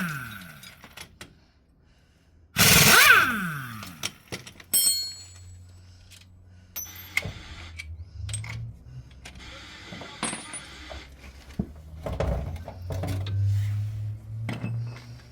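A power tool runs in a short loud burst about three seconds in and winds down in pitch afterwards. It is followed by scattered metallic clinks and rattles of tools and parts over a low steady hum.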